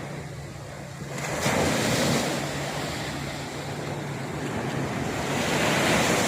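Small sea waves breaking and washing up a sandy beach, surging about a second in and again near the end.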